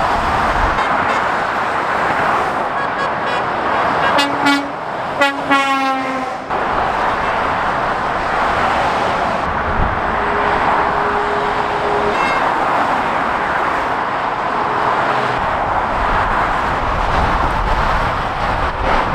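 Steady roar of heavy motorway traffic passing close by, with a vehicle horn tooted twice about four to six seconds in: a short blast, then a longer one.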